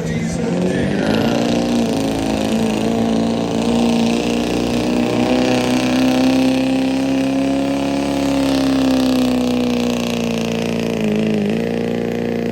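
Pulling pickup truck's engine held at high revs. The pitch climbs over the first couple of seconds, then holds steady, with a brief dip about eleven seconds in.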